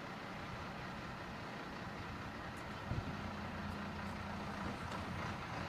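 Fire engine's engine running under steady wind-like rushing noise; about three seconds in a steady low drone comes in and holds for nearly two seconds.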